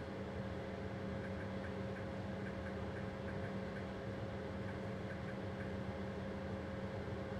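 Steady hum in a train driver's cab, with a constant tone and faint, evenly spaced ticking through the middle.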